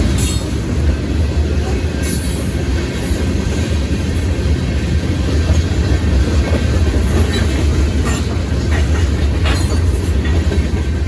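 Freight train rolling past at close range: a loud, steady, deep rumble, with a few sharp clacks of wheels passing over rail joints.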